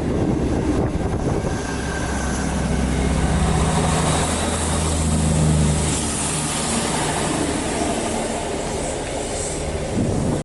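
A diesel train running through the station: a steady low engine drone over the noise of wheels on rail.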